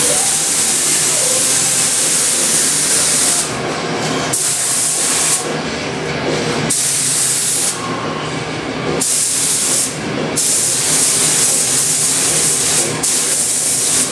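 Compressed-air spray gun spraying primer, a loud steady hiss of air and atomised paint in long trigger pulls, cutting off and starting again about five times as the gun is released between passes.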